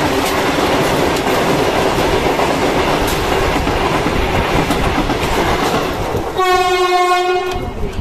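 Vande Bharat electric express train rushing past on the adjacent track at close range, its wheels clattering over the rails. About six and a half seconds in, a train horn sounds one steady blast lasting just over a second.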